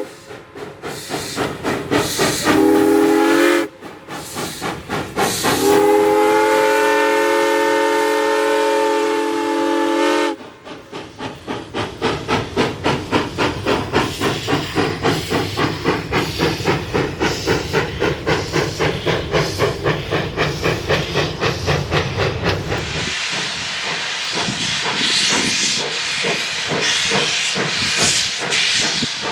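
Arcade & Attica 2-8-0 Consolidation steam locomotive #18 working a train: its chime whistle sounds one short blast and then one long one over its exhaust. The exhaust then beats steadily at about two chuffs a second until it stops near the end, leaving a steady steam hiss.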